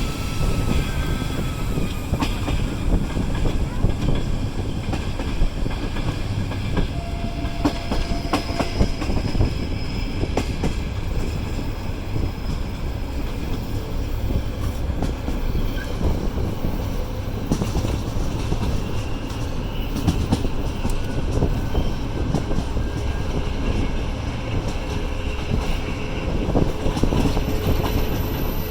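Passenger train hauled by a TEP70 diesel locomotive running along the line, a steady rumble with the wheels clicking over rail joints.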